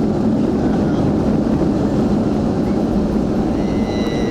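Steady loud roar of a jet airliner's engines and rushing air, heard from inside the passenger cabin during the landing.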